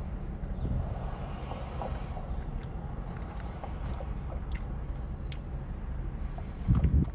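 A person chewing and eating, with small clicks of food and utensils, over a steady low rumble. A single loud low thump comes near the end.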